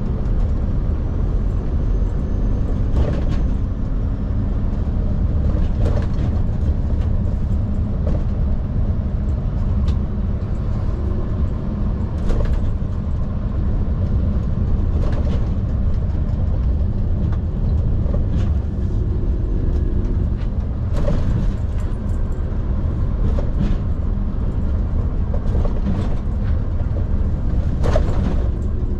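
Scania P360 skip truck's five-cylinder diesel engine running steadily while the truck drives along, a continuous low rumble, with a few sharp knocks scattered through.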